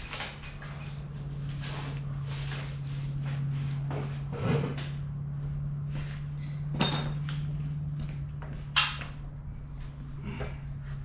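Tools and metal parts knocking and clinking as hand work goes on, with sharper knocks about halfway through and near the end. A steady low hum runs under them.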